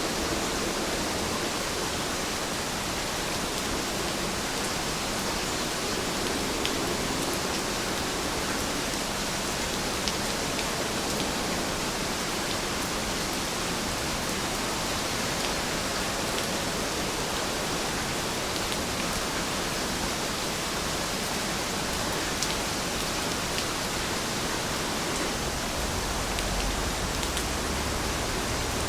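Heavy rain falling steadily, an even hiss with a few individual drops ticking. A low rumble comes in near the end.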